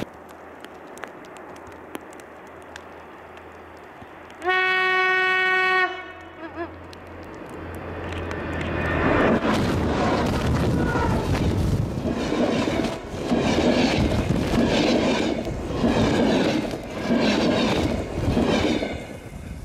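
A locomotive-hauled passenger train approaching: one horn blast of about a second, then a rumble that grows into a loud, pulsing rush of wheels on rails as the locomotive and coaches pass close by.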